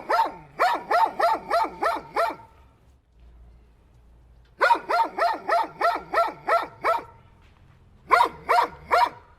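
A dog barking in three quick bursts of rapid barks, about three barks a second: eight, then eight more after a pause of about two seconds, then four near the end.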